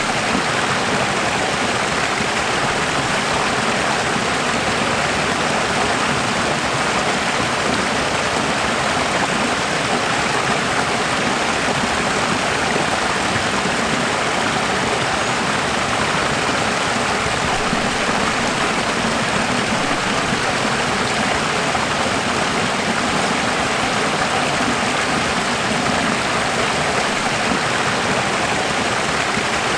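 Running water: a steady, even rush like a stream, with no change in level.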